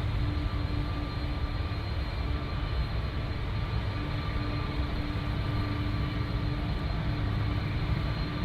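Jet airliner engines running, a steady low rumble with a faint steady whine over it.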